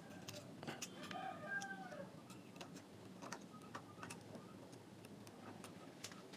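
Faint scattered clicks and taps of small parts being handled and fitted together. A brief wavering pitched sound comes about a second in.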